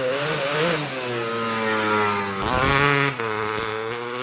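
Motorcycle fitted with an aftermarket racing exhaust, running and being blipped so its pitch rises and falls, with a sharper rev about two and a half seconds in.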